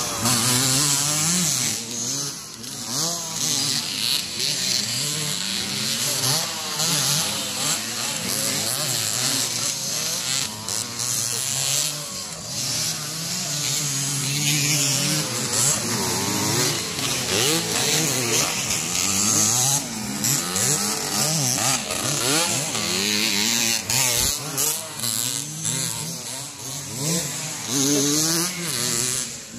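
Motocross dirt bike engines revving hard and easing off as the bikes race, their pitch rising and falling with the throttle, more than one engine heard at once.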